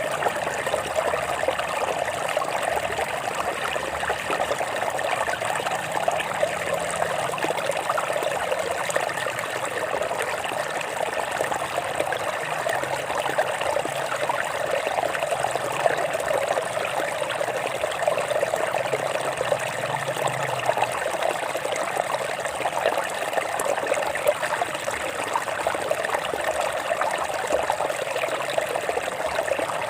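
Stream water flowing and trickling over rocks, a steady babbling with many small splashes.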